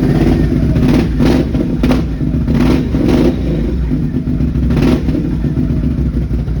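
2021 Can-Am Outlander 570's V-twin engine running through an aftermarket Big Gun slip-on exhaust, idling with several short throttle blips.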